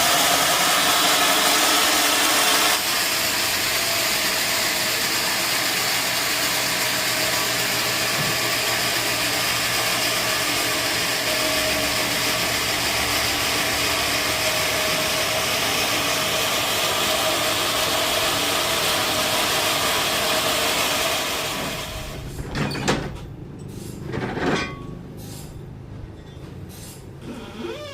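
Sawmill saw running through a large log: a loud, steady noise with a faint whine, which dies away about three-quarters of the way through. After it, a few separate knocks and clatters.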